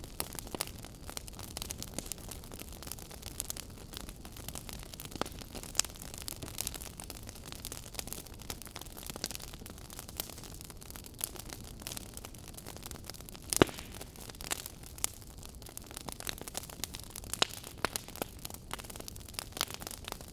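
Fire burning in a fireplace, crackling: a steady hiss with frequent sharp pops and snaps, one much louder pop about two-thirds of the way through.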